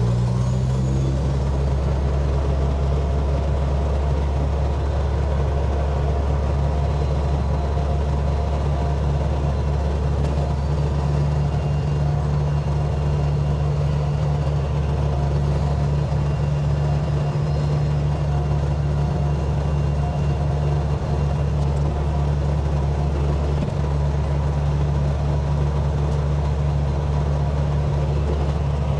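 Dump truck's diesel engine running steadily while driving at an even speed, heard from inside the cab. The cab is loud, as if there were no passenger door, which the driver puts down to missing insulation.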